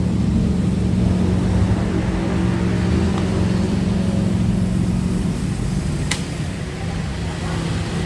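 A car engine running steadily at idle: a low hum with a steady tone. There is a single sharp click about six seconds in.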